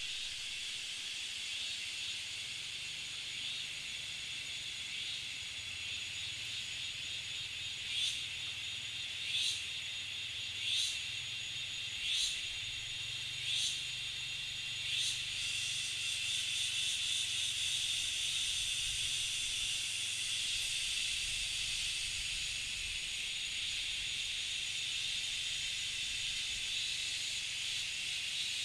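Steady high insect drone outdoors, with six short sharp calls about a second and a half apart in the middle.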